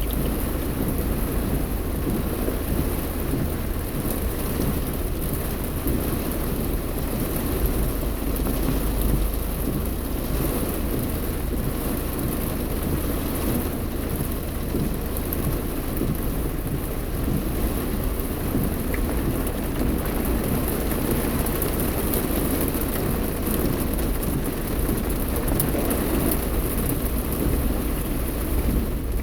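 Heavy rain on a moving car, heard from inside the cabin: a steady hiss of rain with a deep low rumble underneath that swells about eight seconds in.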